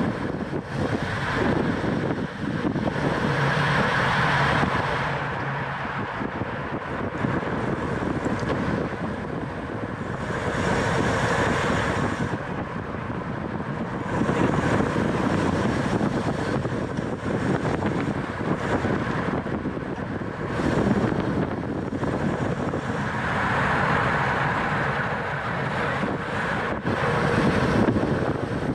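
Wind rushing over the microphone of a camera riding on a racing bicycle at speed, with road and drivetrain noise underneath; it swells and eases every few seconds.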